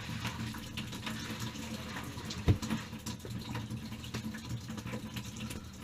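Water running steadily from a disconnected water heater supply line, because its shutoff valve is not holding back all the water pressure. A single knock about two and a half seconds in.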